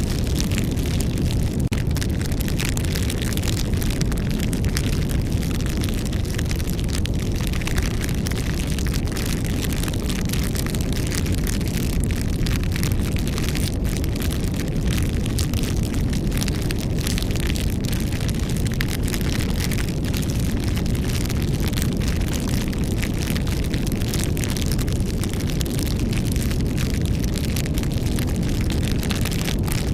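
Campfire burning: a steady low rumble of the flames with frequent small crackles and pops from the wood.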